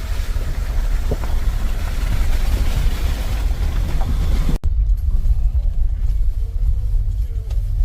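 Vehicle driving on a wet road in the rain: a steady low rumble with the hiss of rain and tyre spray over it. About halfway through, the hiss cuts off abruptly, leaving the low rumble.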